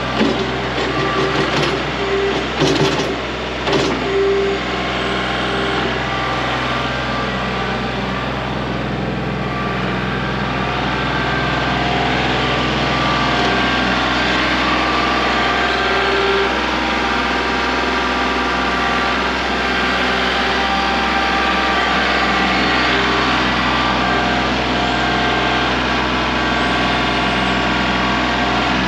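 Kubota L3901 compact tractor's three-cylinder diesel engine running steadily, with a few sharp knocks in the first four seconds.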